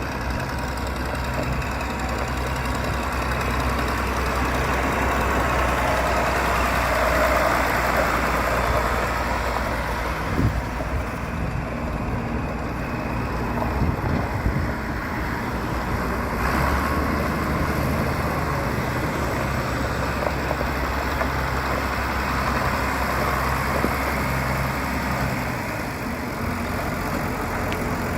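John Deere 4030 tractor's six-cylinder diesel engine idling steadily.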